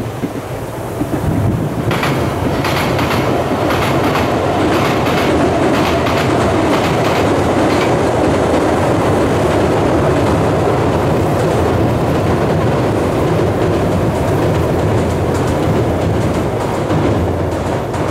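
Odakyu 5000 series electric commuter train crossing a steel railway bridge: a loud, steady rumble from the wheels and bridge deck, with a run of clickety-clack from the wheels over rail joints starting about two seconds in.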